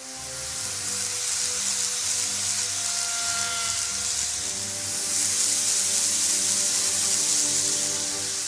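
KATO N-gauge E233 series model train running close by: its motor whines in several steady tones under a loud, even hiss that sets in suddenly and holds, the slight strange noise this train makes.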